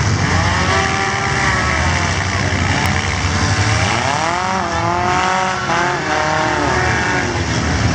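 Several compact four-cylinder demolition derby cars running and revving together, their engine pitch repeatedly rising and falling as they accelerate and back off, over a steady deep rumble.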